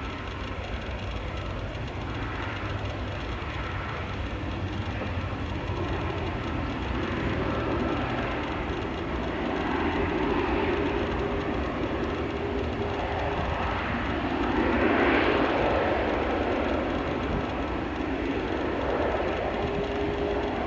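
Jet airliner engines running, a steady engine noise that swells to its loudest about 15 seconds in and then eases.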